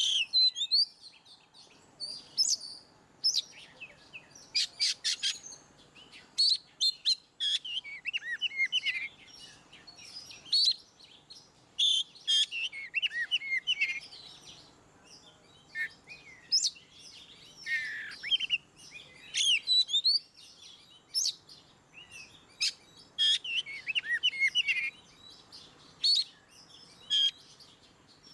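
Oriental magpie-robin (kacer) singing in the loud, open 'ngeplong' style: a run of varied whistled phrases mixed with quick clusters of sharp notes, delivered in short bursts with brief pauses between them.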